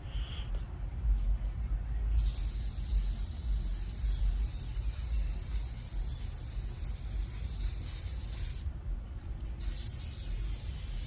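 Aerosol spray-paint can hissing in one long spray of about six seconds, stopping for about a second, then spraying again near the end, over a steady low rumble.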